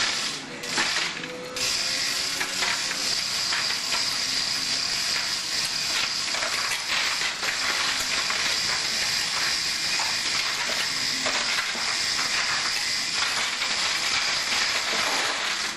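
Ratcheting mechanism clicking rapidly and continuously, over a steady hiss.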